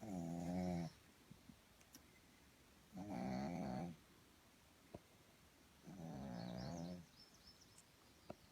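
A pug snoring: three snores, each about a second long, roughly three seconds apart.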